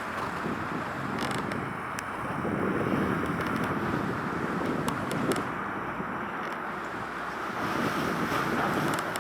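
Wind buffeting the microphone in gusts, a rushing noise that swells twice, with a few faint clicks.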